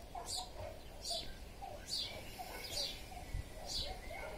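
A bird chirping: short, high chirps that fall in pitch, repeated about once a second.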